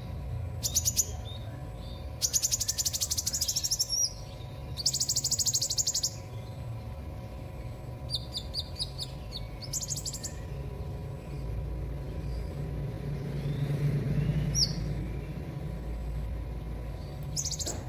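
Sunbird (the bird sold in Indonesia as "kolibri") singing: bursts of rapid, very high-pitched trills about a second long, separated by short pauses, with a stuttering run of separate notes about eight seconds in. A steady low hum sits underneath.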